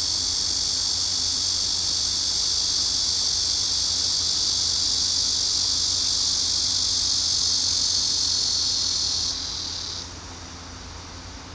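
Cicadas shrilling in a loud, steady chorus that drops off in two steps near the end.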